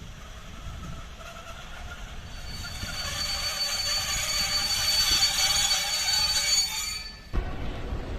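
A train running past on the rails, growing louder, with a high steady squeal over the rushing noise of the wheels. The sound cuts off abruptly about seven seconds in, and a lower rumble takes over.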